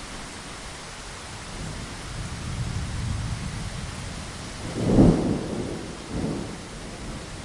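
Steady rain against a window. A roll of thunder swells from about a second and a half in, peaks in a loud clap about five seconds in, and gives a smaller rumble a second later.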